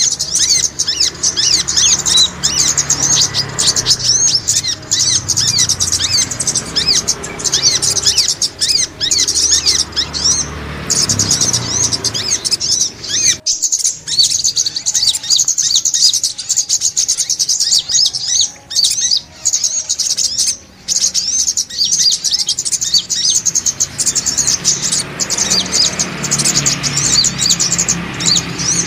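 Brown-throated sunbird (sogok ontong) chirping: dense runs of rapid, high-pitched notes, broken briefly about halfway through.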